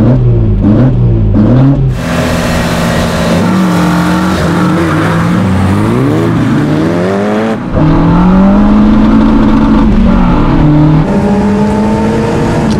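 VW Polo G40's small supercharged four-cylinder engine being revved up and down on the line, then a launch at full throttle, the revs climbing and dropping again with each upshift, two or three times.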